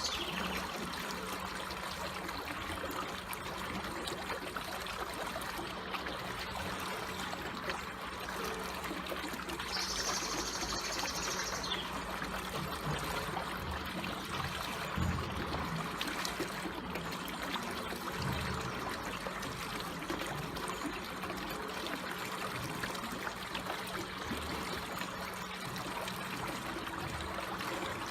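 Slowly flowing water trickling steadily. About ten seconds in, a brief high-pitched sound lasts about two seconds.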